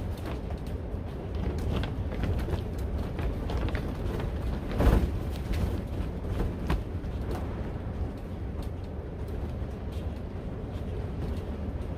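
High wind buffeting a cattle panel greenhouse and its plastic cover: a steady low rumble of gusts with scattered sharp clicks and rattles, and a louder gust about five seconds in.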